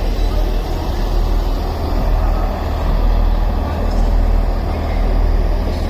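Diesel multiple unit engines running, a loud steady low rumble with no distinct events.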